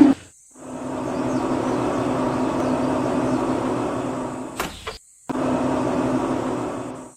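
A small electric motor running steadily with an even hum, with a sharp click about four and a half seconds in; the sound drops out abruptly twice.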